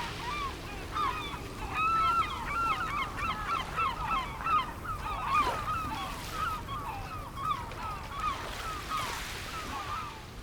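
A flock of birds calling: many short, overlapping calls, several a second, busiest in the middle, over a steady low background rumble.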